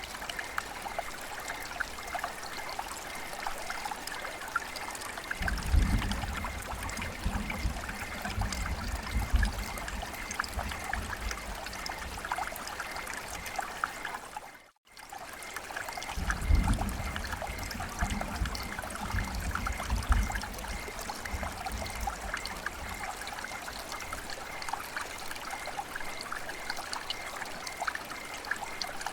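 Steady patter of rain mixed with trickling water. A low rumble rises twice, about five seconds in and again shortly after halfway. Midway the sound briefly dips to near silence and comes straight back.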